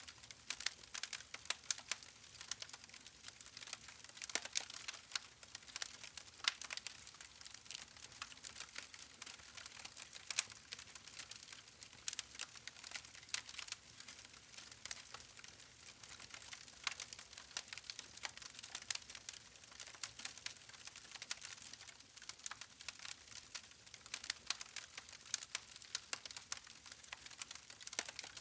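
Campfire logs crackling: many small, irregular snaps and pops over a faint hiss.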